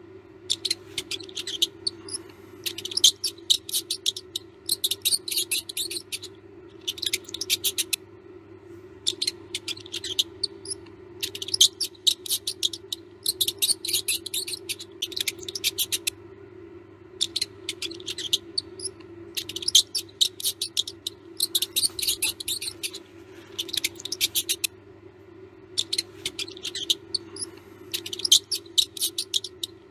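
Mouse squeaking and chittering in rapid bursts about a second long, with short pauses between, over a steady low hum.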